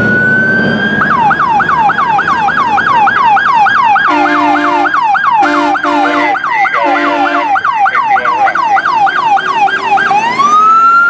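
An emergency vehicle's electronic siren: a rising wail that switches to a fast yelp, about three or four sweeps a second, then back to a rising wail near the end. In the middle come four short horn blasts, one after another.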